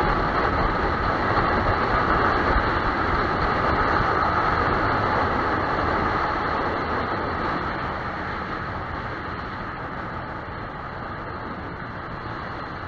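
Riding noise of a Yamaha YZF-R15 motorcycle on the move: engine and wind rushing past the microphone in a steady roar that fades gradually over the second half.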